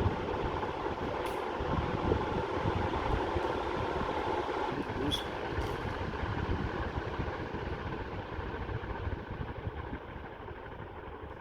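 Ceiling fan running at high speed: a steady rush of air from the blades with motor hum and a fluttering low rumble, getting quieter in the last couple of seconds.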